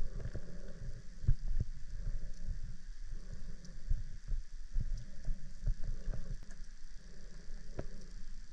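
Underwater river sound: a low rumble of flowing water with irregular clicks and knocks scattered throughout.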